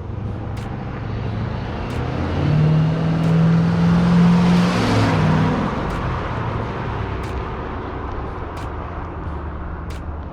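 1988 Chevrolet Blazer's 5.7 L TBI V8 driving past: the engine and tyre noise grow louder, peak about four to five seconds in, then fade as it moves away.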